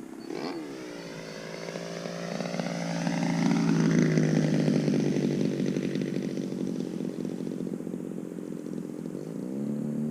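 The DLE 35RA single-cylinder two-stroke gasoline engine and propeller of a radio-controlled aerobatic plane in flight. The pitch drops about half a second in, then holds steady while growing louder and fading again. Near the end the revs climb in steps.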